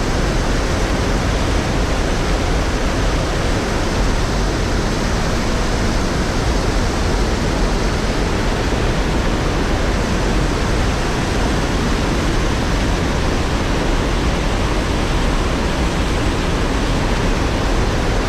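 Steady rushing of water pouring over a man-made waterfall at an old mill dam.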